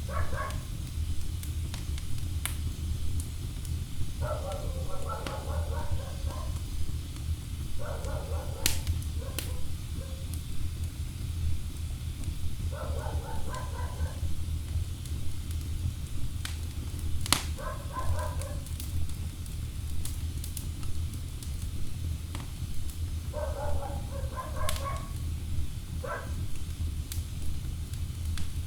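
Wood fire burning in a fireplace, with a steady low rumble and sharp crackling pops from the logs at irregular moments.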